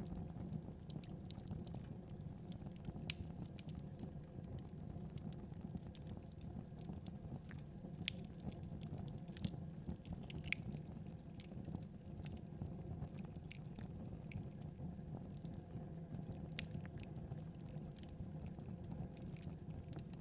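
Wood fire crackling: a steady low burning rumble with scattered sharp pops and snaps at irregular intervals.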